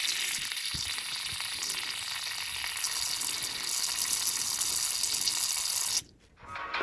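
Steady hiss of air escaping from a radiator bleed valve opened with a bleed key, cut off suddenly about six seconds in as the valve closes.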